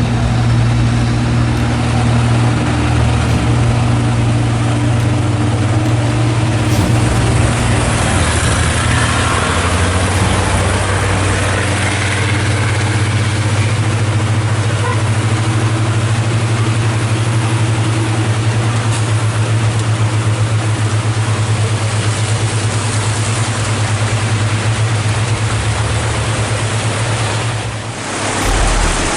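Heavy truck's diesel engine running steadily at low revs, a deep drone, over a constant hiss of heavy rain and running water.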